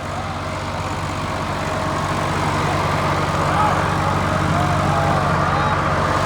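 Tractor engine running steadily with a fast, even beat, growing gradually louder.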